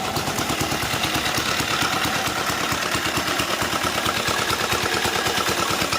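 Sooraj diesel motorcycle's single-cylinder diesel engine running steadily with a rapid, even beat of firing pulses. This is its first run after standing unused for 15 years.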